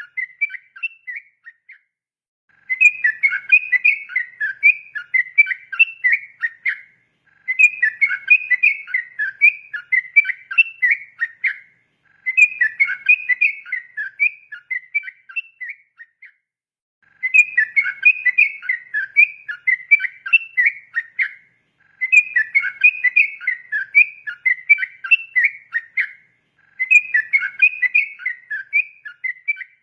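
A trucukan (yellow-vented bulbul) singing its rapid, bubbling whistled song in repeated phrases. Each phrase lasts about four to five seconds and is a quick run of notes, with a short pause between phrases, about six times over.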